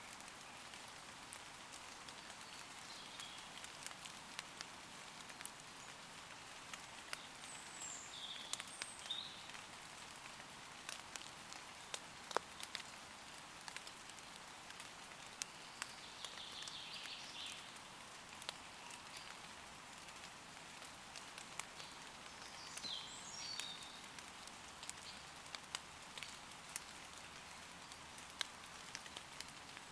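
Light rain falling steadily on leaves, with many separate drops pattering close by. Short high bird calls come through every few seconds.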